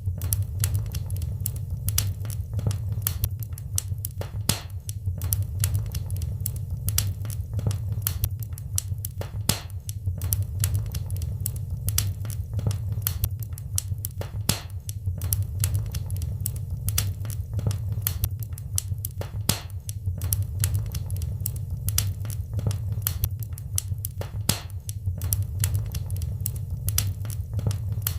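Wood fire crackling in a fireplace: irregular sharp pops and snaps, several a second, over a steady low rush of the burning fire.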